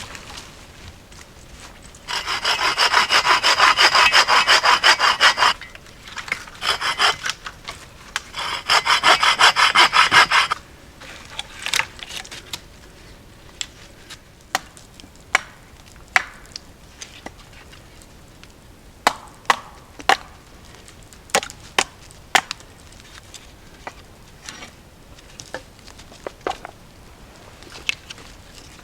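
Hand saw cutting wood in two bouts of rapid back-and-forth strokes, each about three seconds long, followed by scattered light knocks and clicks.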